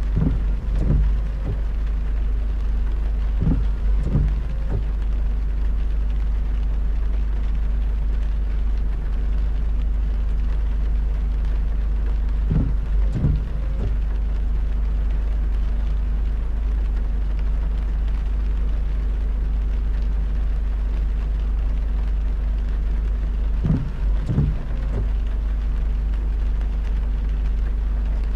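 A car driving on a wet highway in heavy rain: a steady low road rumble and drone under an even rain hiss. Clusters of two or three short low thumps come four times, about a second in, around 4 seconds, around 13 seconds and around 24 seconds.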